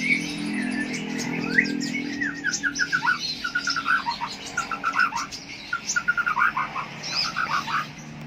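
A contest songbird singing a fast, varied song of rapid repeated notes, with other birds chirping over it.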